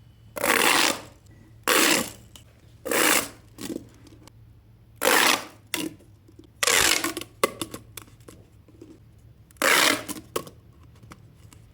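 Plastic pop tubes being stretched and squeezed: six short, loud bursts of noise one to three seconds apart, with smaller clicks in between.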